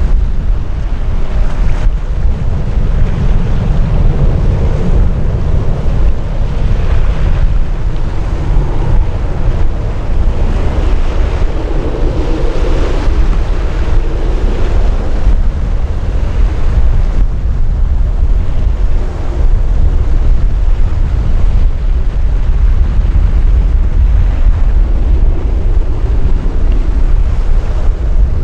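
Strong wind buffeting the microphone: a loud, steady rumble that swells a little about halfway through.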